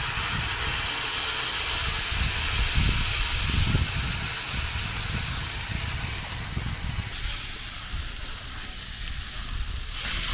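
Smash burger patties sizzling, a steady hiss that fades somewhat about seven seconds in and picks up again near the end.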